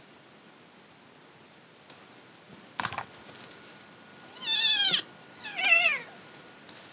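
Kitten meowing twice, two high calls that each fall in pitch, the second a little after the first. A sharp click comes just before them.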